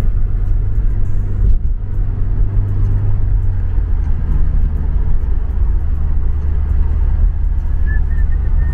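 Car on the move, heard from inside the cabin: a steady low engine and road rumble, its pitch shifting slightly about four seconds in.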